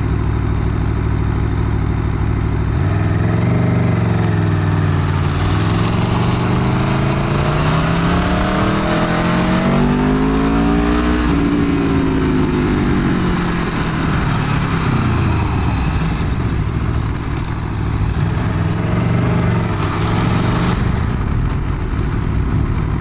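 Aprilia Tuono V4's V4 engine through its stock exhaust, heard on board while riding. The engine note dips a few seconds in, climbs steadily for several seconds as the bike accelerates, falls back, and then runs more evenly with a brief rise near the end, over a steady rush of wind noise.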